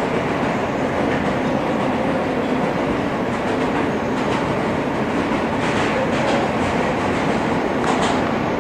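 Inside a moving R160 subway car: a steady rumble of wheels on rail. A run of short, sharp clicks comes in the last few seconds.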